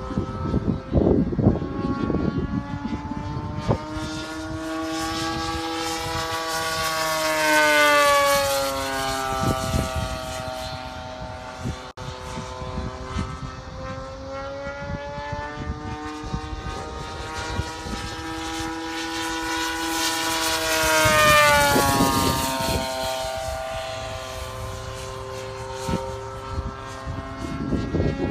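Model warbird's 64cc twin-cylinder inline gasoline engine (DLA-64 i2) and propeller in flight, making two passes: the note rises in pitch and loudness as the plane approaches and falls away after it passes, loudest about a third of the way in and again about three quarters in. Wind buffets the microphone near the start.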